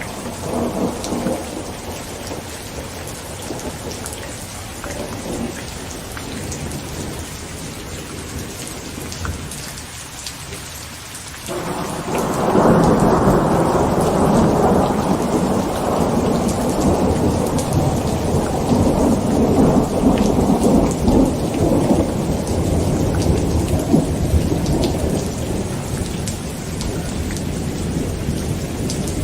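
Heavy rain pattering on a tent, with a low rumble of thunder in the background. About twelve seconds in, a loud thunderclap breaks in suddenly and rolls on as a long rumble.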